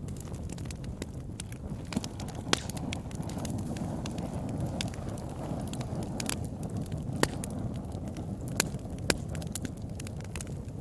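Campfire burning with a steady low roar and irregular sharp crackles and pops from the burning wood, a few of them louder.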